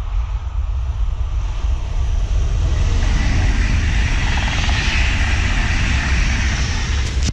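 Electric passenger train passing close at speed: a rush of wheel and air noise that swells over the first three seconds and then holds loud, over a deep rumble. It cuts off abruptly with a click at the end.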